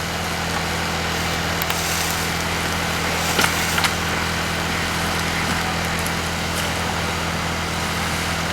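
A motor running steadily: a constant low hum under an even hiss, with a couple of faint clicks about three and a half seconds in.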